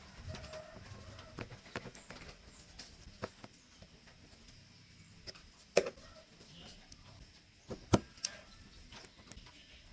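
Scattered light clicks and taps, with two sharper knocks about six and eight seconds in.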